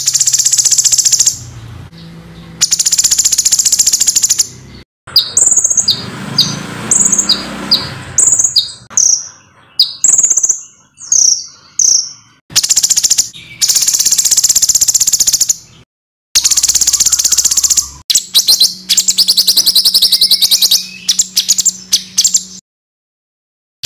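Small songbirds giving harsh, rapid 'tembakan' bursts: dense trains of high, fast-repeated notes, each lasting one to three seconds. A run of separate short whistled notes comes in the middle. The bursts are cut off abruptly, with brief silent gaps between them.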